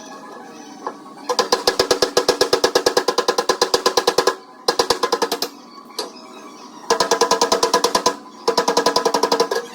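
Rapid metal hammering on a car door panel, about ten ringing strikes a second, as a body hammer beats the dent out against a dolly. It comes in four runs of one to three seconds with short pauses between them.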